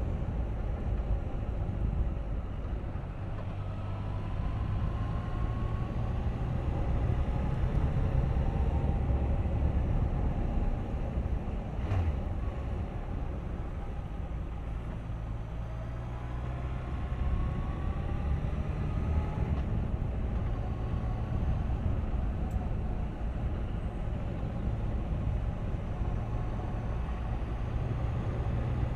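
Suzuki GSX1250FA's inline-four engine running on the road, mixed with wind and road noise, its pitch rising twice as the bike accelerates. A single sharp click about twelve seconds in.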